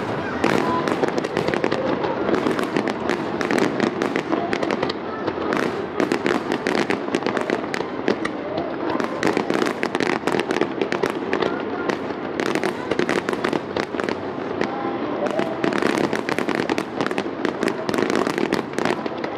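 Fireworks display: aerial shells bursting and crackling in rapid succession, a dense, unbroken run of overlapping bangs and crackles.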